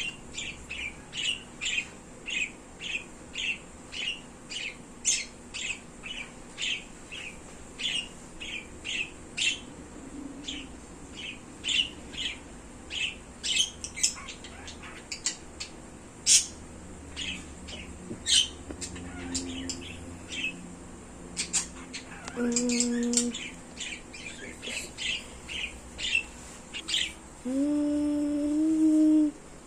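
Pet birds chirping, short sharp calls repeated about twice a second, thinning out later. Near the end a person hums a low steady note.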